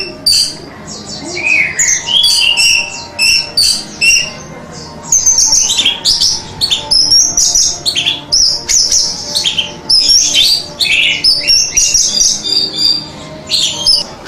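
Orange-headed thrush (anis merah) singing a continuous run of quick, varied, high-pitched whistled and chattering phrases, a little softer for the first few seconds and then fuller.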